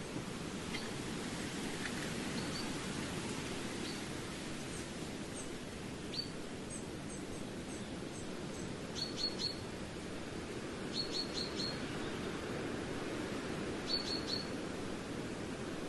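A small bird chirping high, short notes. From the middle on they come in quick runs of three or four, a few seconds apart, over a steady low rumble of background noise.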